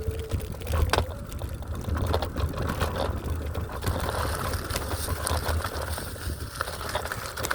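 Electric scooter rolling over rough, rocky ground, its wheels and frame rattling with many small knocks over a steady low rumble.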